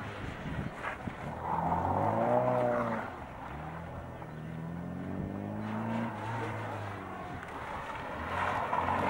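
Classic Mini's A-series four-cylinder engine being revved hard and let off as the car is driven through tight turns. The revs climb about two seconds in, drop back about a second later, and climb again near the end.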